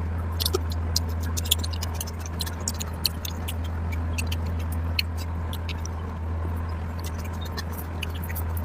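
Close-miked eating: wet mouth clicks and smacks of chewing curry and rice, coming irregularly several times a second, over a steady low hum.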